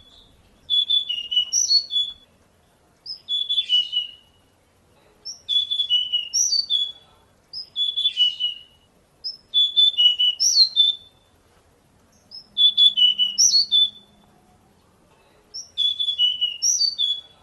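Pied bushchat singing: a short, quick phrase of high chirps and whistles, repeated about every two seconds, much the same each time.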